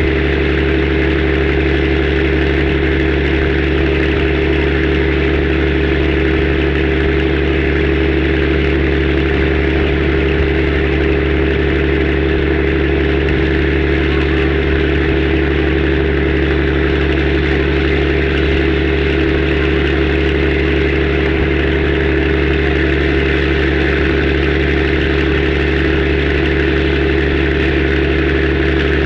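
A boat's engine running steadily at constant speed, a loud, unchanging drone.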